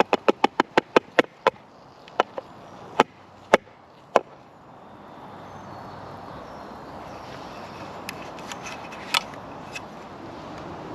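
A quick run of about a dozen sharp knocks, roughly six a second, then a few scattered single knocks and some softer ticks near the end.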